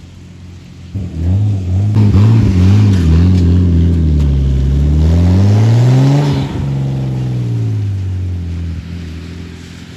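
Nissan 240SX's swapped RB25DET Neo turbocharged straight-six revving as the car pulls away: a few quick blips about a second in, then a longer rise in pitch that breaks off around six and a half seconds in. The engine note then grows quieter as the car drives off.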